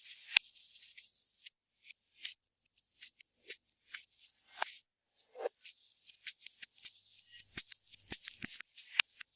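Clear slime being squeezed, folded and stretched by hand, giving irregular sticky clicks, crackles and small pops, with a short squelch about five seconds in.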